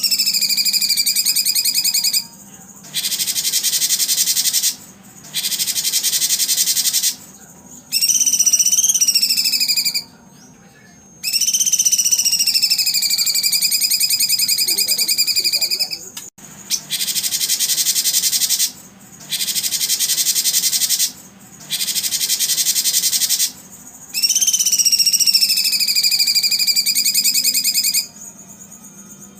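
Recorded songbird calls in a repeating sequence. Clear whistled notes, each held about two seconds and bending in pitch, alternate with dense, fast buzzing trills, with short pauses between them.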